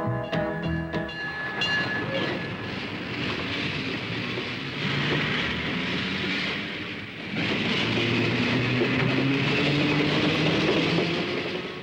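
A freight train's diesel locomotive and cars running past, a steady engine drone over rail and wheel noise, while the last notes of a country song die away in the first couple of seconds. The train sound drops away just before the end.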